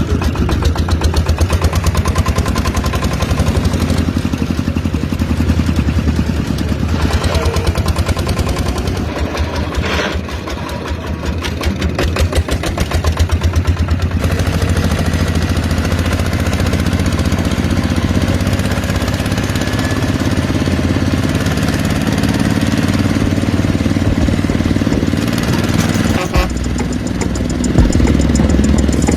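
Small engine of a miniature DIY tractor running steadily, with a rapid, even firing beat.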